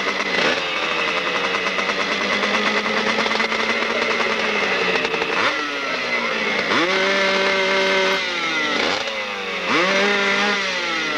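Motorcycle engine revving, its pitch falling over the first few seconds. Then come several sharp throttle blips, one held at high revs for about a second before dropping back.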